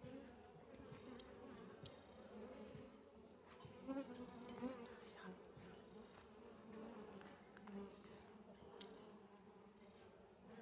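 A swarm of honey bees buzzing faintly around an open, crowded hive as its frames are worked, with a few short clicks.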